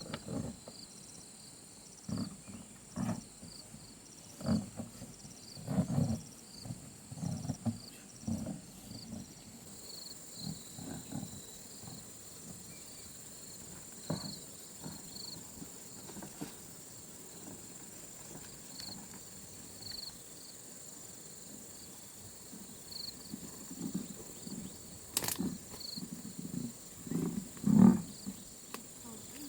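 Irregular low thumps and rustles, with the loudest thump near the end, over faint steady insect chirping.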